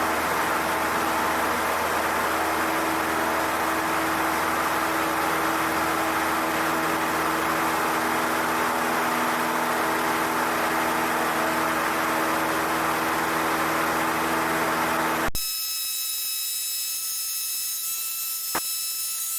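Cessna 152's four-cylinder Lycoming O-235 engine and propeller running steadily at full power during takeoff and climb-out, heard in the cockpit. About 15 seconds in, it cuts off abruptly and is replaced by a quieter, steady electronic whine of a few high tones, with one click near the end.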